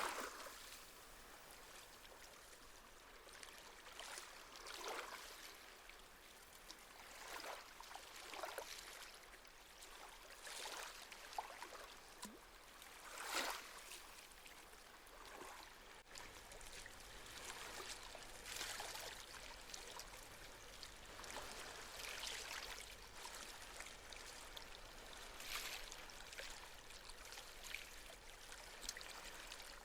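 Small sea waves lapping on a shore: soft splashing washes come every few seconds over a faint steady hiss. The strongest wash comes right at the start and another about thirteen seconds in.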